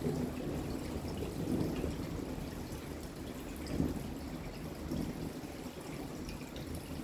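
Steady rain falling, with water trickling and pouring.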